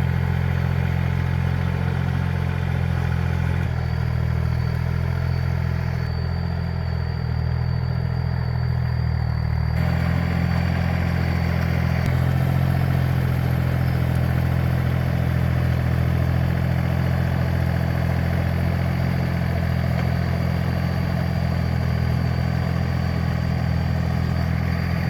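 Tractor engine running steadily with a low, even hum. Its tone shifts abruptly a few times.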